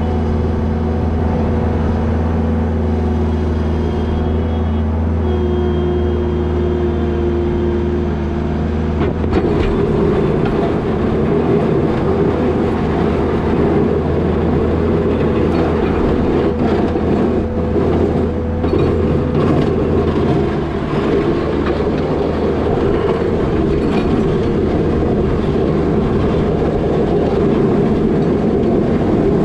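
New Holland L220 skid steer's diesel engine running steadily with a low hum. About nine seconds in, a louder, rougher rattling noise with scattered clatter joins it and carries on.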